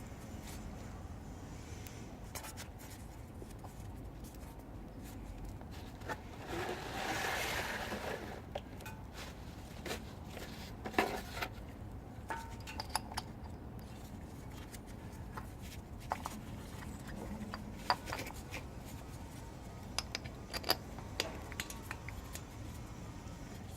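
Scattered light clicks and taps of small metal parts and hand tools being handled while an oil filter cover is refitted on a motorcycle engine. There is a brief scraping rustle about six seconds in, and a few sharper clicks later on.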